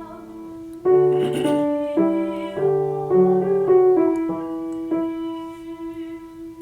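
A voice student singing a slow song line with piano accompaniment, ending on a long held note.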